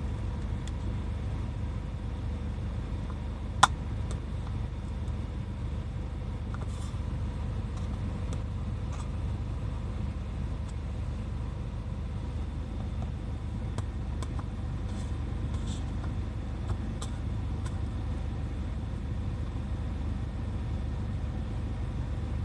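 Toyota Hiace 200-series van running, a steady low rumble, with a single sharp click about three and a half seconds in.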